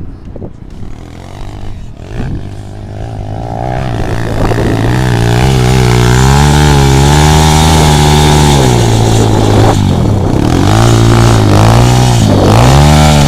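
Motorcycle engine revving: the engine note climbs in pitch and loudness over the first few seconds, holds at high revs, then drops back briefly twice in the second half before picking up again.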